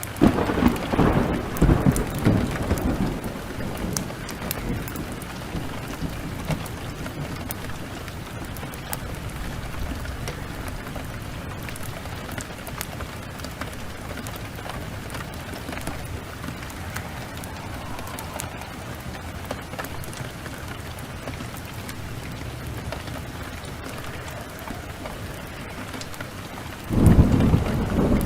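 Steady heavy rain, with a loud low roll of thunder in the first few seconds and another breaking out just before the end.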